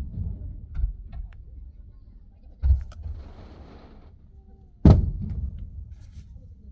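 Fireworks shells bursting, heard from inside a car: a dull thump about two and a half seconds in with a second of hiss after it, then a sharp, loud bang near the end that rumbles away. Scattered small crackles come in between.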